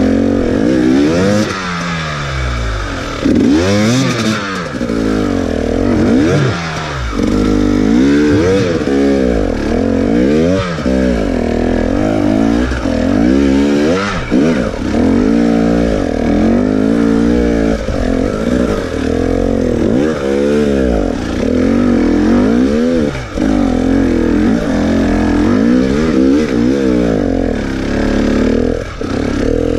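Enduro dirt bike engine under way, revving up and falling back over and over as the throttle is opened and closed.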